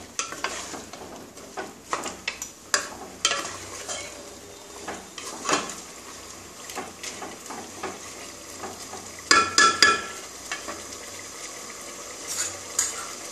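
Chicken pieces sizzling in oil in a nonstick pot while a wooden spatula stirs and scrapes them, with scattered light knocks of the spatula against the pot. A quick run of sharper knocks comes about three-quarters of the way through.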